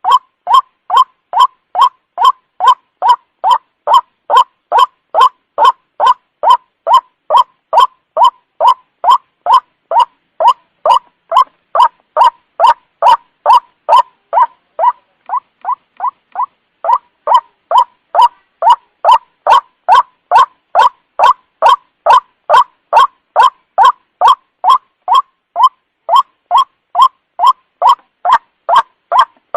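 White-breasted waterhen (ruak-ruak) calling over and over: a steady string of short, loud "kwak" notes, about two a second, briefly softer for a few seconds past the middle. This is the repetitive call used as a lure to draw waterhens in at night.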